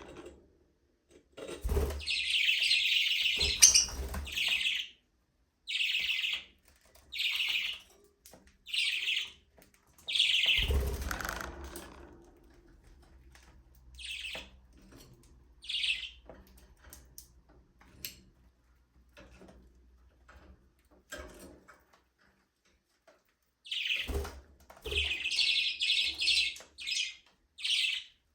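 Budgerigars chirping and chattering: bursts of rapid warbling near the start and again near the end, with single short chirps spaced a second or so apart in between. A few low thumps mix in with the chattering.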